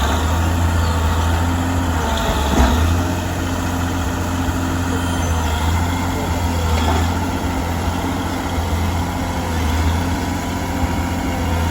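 A heavy truck's diesel engine running steadily at low revs, with one brief louder sound about two and a half seconds in.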